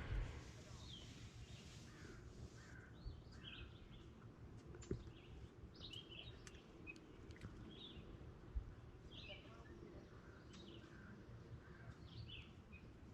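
Faint birdsong: short, scattered chirps and calls from small birds, with one light click about five seconds in.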